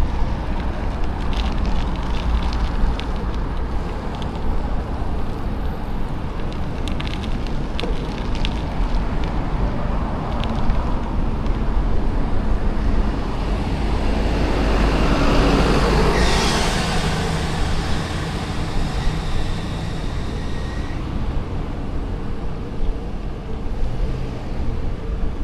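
Wind noise on the microphone of a moving bicycle, with short rattling clicks in the first part. About two-thirds of the way through, a vehicle passes: a broad swell of road noise that rises and fades.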